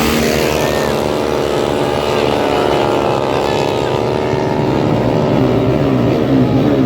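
Honda Karisma motorcycle's single-cylinder four-stroke engine running at steady revs, an even pitched drone.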